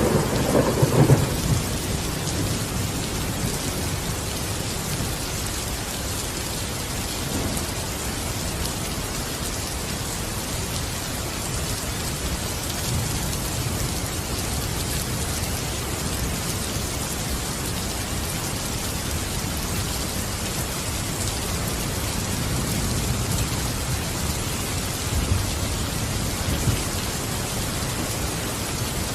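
Steady heavy rain hissing, with rumbles of thunder: a loud rumble dies away in the first second or two, and softer rumbles roll in again later.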